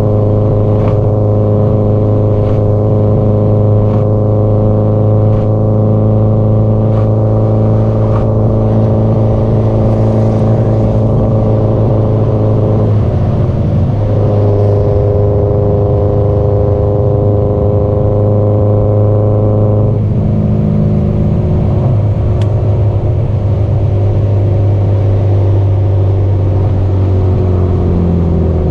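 Subaru Impreza GDB-E's turbocharged flat-four engine and exhaust running at a steady cruise, the note holding an even pitch, with a brief dip about halfway and a change in tone a few seconds later. Near the end the pitch slowly falls as the car eases off.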